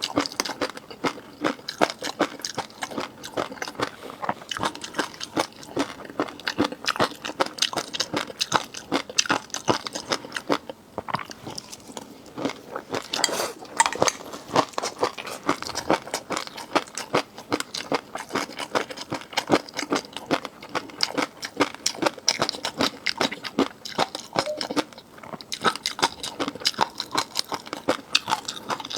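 Close-miked chewing and crunching of seafood: a dense run of quick, crisp crunches and clicks, with a short pause about eleven seconds in.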